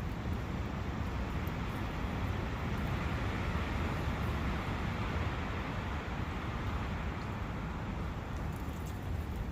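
Wind blowing through a forest with a brook running: a steady rushing noise with a low rumble, swelling a little around the middle.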